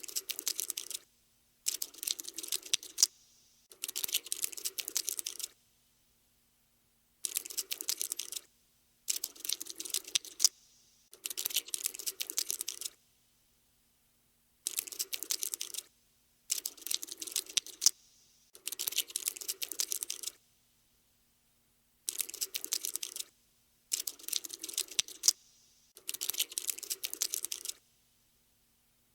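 Cockroach scuttling sound effect: bursts of rapid, light clicking about a second long, about a dozen of them, each cut off by a short silence.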